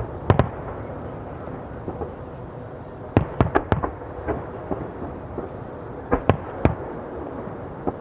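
Fireworks bursting overhead: sharp bangs, single and in quick clusters, about a second in, four in a row around the middle and two more near the end, over a steady rumble of further shells.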